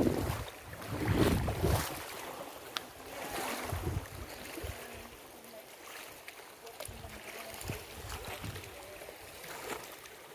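Wind buffeting the microphone in gusts during the first couple of seconds, then a faint, steady outdoor hush.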